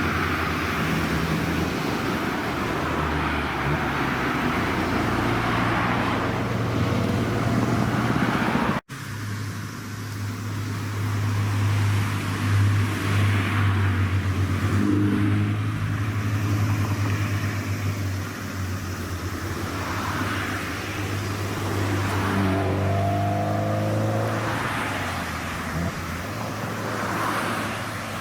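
Car engines running, with a steady low exhaust note and an engine revving up, its pitch rising, a little before the end. The sound cuts out abruptly for an instant about nine seconds in.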